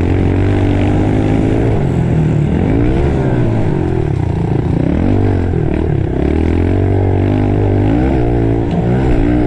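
Small pit bike engine ridden hard around a dirt track, revving up and backing off again and again as the throttle is worked through the track's jumps and turns.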